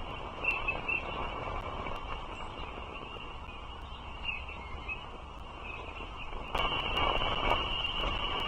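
Steady outdoor hiss and rumble on a bald eagle nest cam's microphone, with a few brief high bird chirps about half a second in and again around four seconds in. The hiss steps up louder about two seconds before the end.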